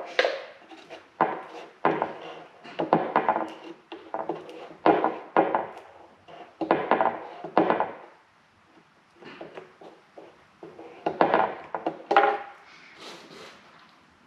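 Wooden pieces and tools being handled, set down and knocked together in a string of separate knocks and clatters. There is a quiet stretch of about three seconds just past the middle, then a few more knocks.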